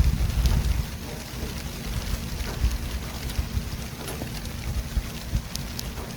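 City traffic ambience: a constant low rumble of vehicles with an even hiss over it, a little louder in the first second.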